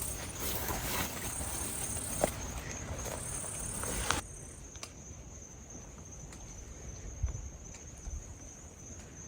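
Insects trilling in the bush: a steady high-pitched drone throughout, joined in the first half by a second, higher insect call in on-off spells. Everything drops quieter about four seconds in, with a few faint knocks.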